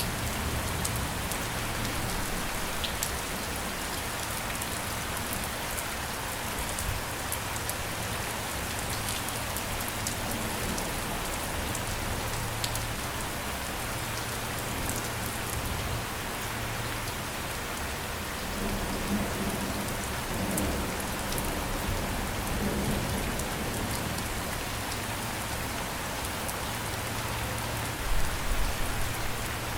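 Steady rain falling on a surface, with fine scattered drop ticks. A low rumble starts near the end, the beginning of thunder.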